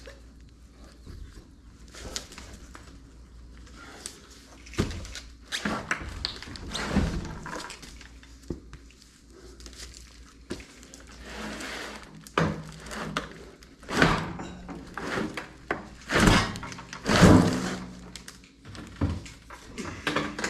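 Irregular knocks, clunks and scrapes of tools and metal parts being handled, with some brief clattering runs, during work on a gas water heater.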